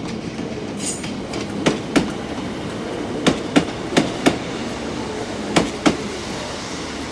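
Class 150 diesel multiple unit rolling slowly past with a steady engine hum. Its wheels click over a rail joint in four quick pairs, each pair being the two axles of one bogie.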